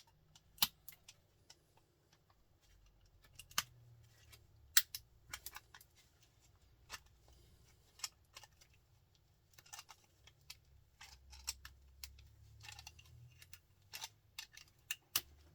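Irregular metallic clicks and scrapes of a screwdriver working at a small printer motor, prying its copper winding loose, with some strokes sharper and louder than others.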